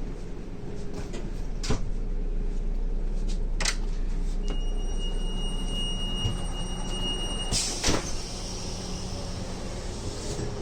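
VR Dm12 diesel railbus with its engine running steadily and a few clicks, then a steady high warning beep for about three seconds, ending in a loud bang and hiss as the sliding doors close.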